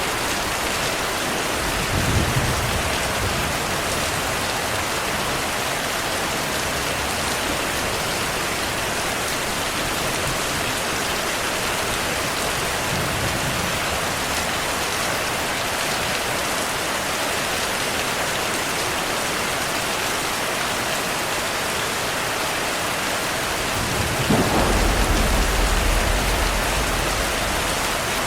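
Steady heavy rain falling, with low thunder rumbles: a short one about two seconds in, a faint one midway, and a longer, louder roll near the end.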